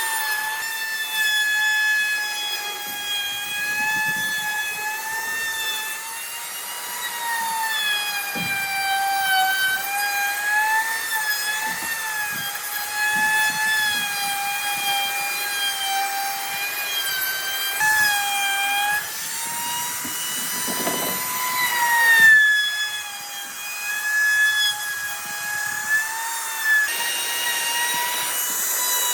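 Electric power tool working wood, its motor whining at a high steady pitch that sags and recovers as it meets the wood, with a few abrupt jumps in pitch and scattered light knocks.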